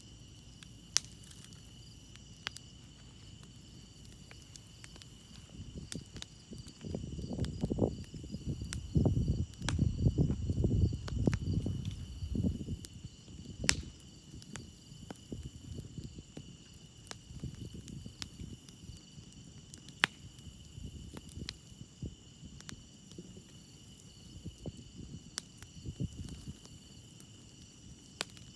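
Campfire crackling, with scattered sharp pops, while crickets chirp steadily. A low rumble swells for several seconds in the middle.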